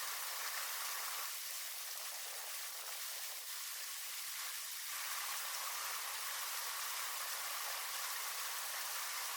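Steady noise of rushing water, an even hiss with no separate events.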